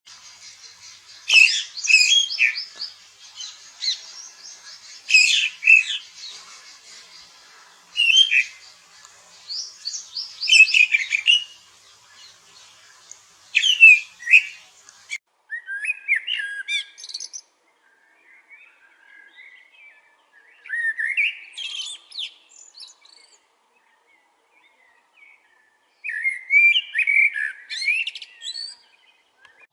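Songbirds singing: short, high, warbling phrases repeat every few seconds over a faint background of more distant bird chatter. About halfway through, the background cuts off abruptly and sparser chirping phrases follow, with silent gaps between them.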